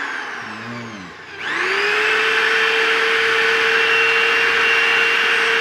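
Electric drill winding down to a stop, then switched on again about a second in, revving up quickly and running at a steady high whine. It is drilling into a square steel tube with a bit that has gone blunt.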